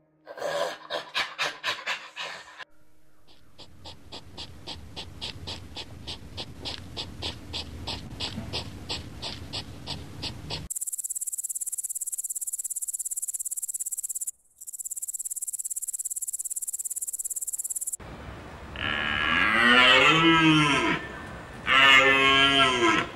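A chimpanzee's quick panting calls, then a run of pulsed calls that speed up and grow louder. Crickets then chirp in a steady high trill, broken once briefly. Near the end come several loud elk calls that rise and fall in pitch.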